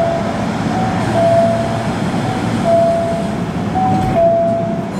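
Steady running noise of a subway train standing at an underground platform, with a few short steady tones, each at a slightly different pitch.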